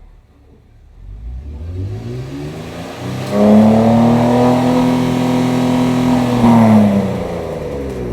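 Kia Stinger engine revved through an aftermarket exhaust: the pitch climbs from about a second in, holds steady and loud for about three seconds, then drops back near the end.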